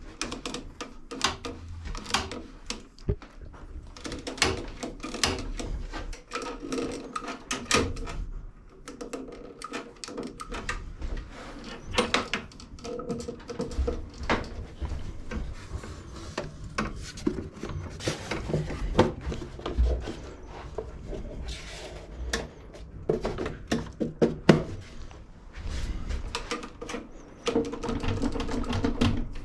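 Irregular clicks, knocks and clatter of a walk-behind lawn mower being handled and inspected by hand.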